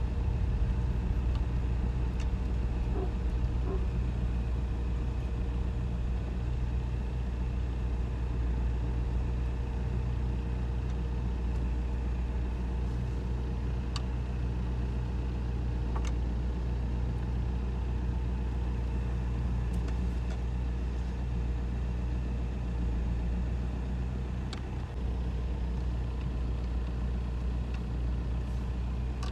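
Steady drone of a car's engine and road noise, unbroken throughout, with a few faint clicks.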